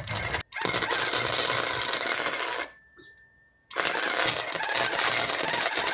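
Electric arc welding on a steel exhaust manifold: the arc crackles and sizzles steadily in runs of a few seconds, breaking off briefly about half a second in and again for about a second midway before the next bead is started.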